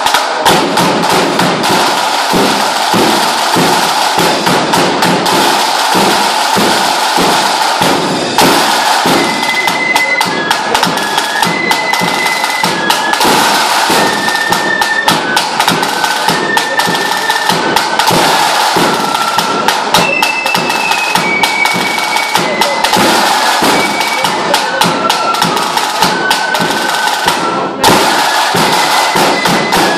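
Lambeg drum beaten with canes in a fast, unbroken rattle of strokes. From about nine seconds in, a high fife melody plays over the drumming.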